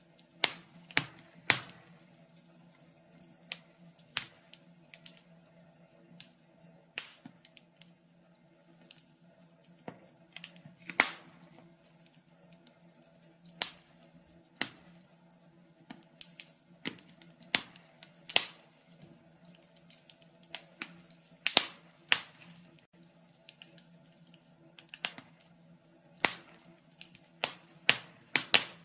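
Burning logs in a fireplace crackling: irregular sharp pops and snaps, a few of them loud, over a faint steady low hum.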